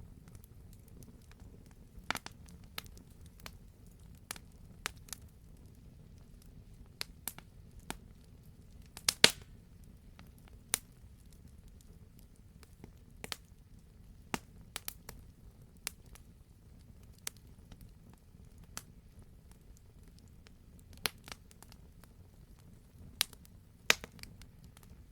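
Wood fire crackling: irregular sharp pops and snaps over a low, steady rumble, the loudest pops about nine seconds in and again near the end.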